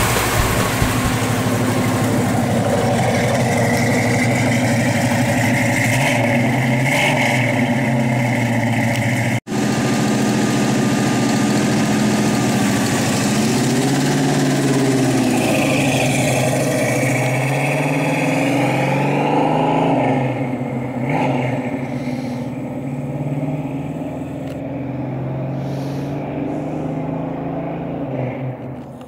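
1970 Plymouth 'Cuda's V8 running steadily. After a brief dropout the car drives away: the engine note rises and falls with the throttle, then fades as it moves off into the distance.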